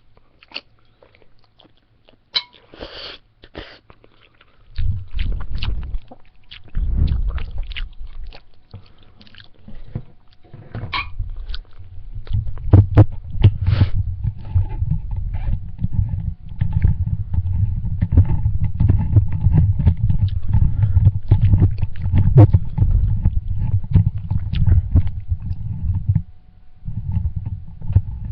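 Close-miked eating of spaghetti and salad: chewing with many short wet clicks and crunches, over a low rumble that comes in about five seconds in.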